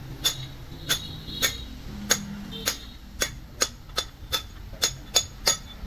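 Hammer tapping on metal: about a dozen short, ringing metallic strikes, coming faster in the second half.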